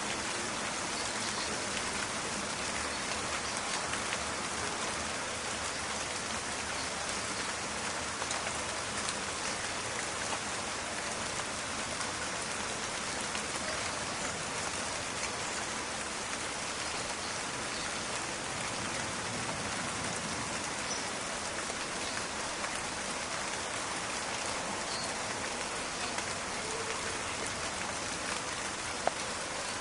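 Steady rain falling and pattering on surfaces, a dense even hiss full of fine crackling drop impacts, with one sharper click near the end.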